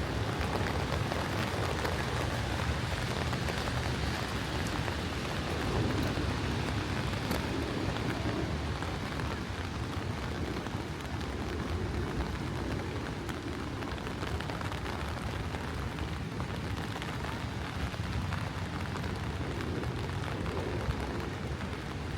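Steady rain falling, an even continuous hiss, with a low rumble underneath.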